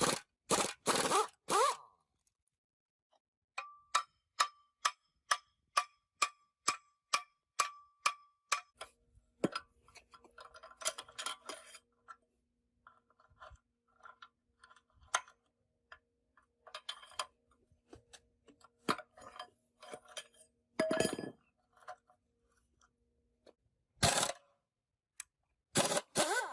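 Metal parts and tools clanking during work on a tractor gearbox, with a run of about a dozen even, ringing metallic taps, a little over two a second, then scattered clinks and several louder clangs near the end. A faint steady hum sits underneath for much of the middle.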